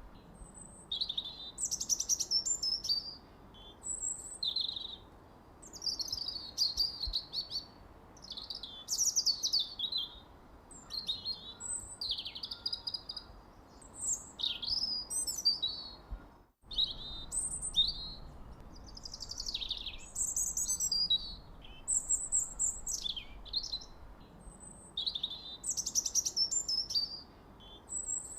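Birds chirping and singing without pause: quick high chirps and short downward-sweeping whistled notes, one after another, over a faint hiss. A split-second gap in all sound falls just past halfway.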